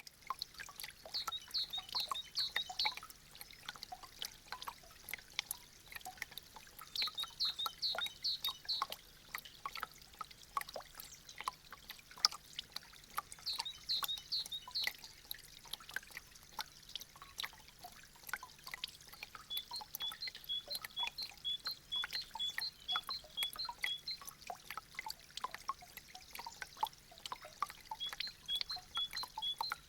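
Meltwater from icicles dripping and trickling in a dense, irregular patter of drops. High chirping notes come in short clusters, then settle into a steady run of about two notes a second.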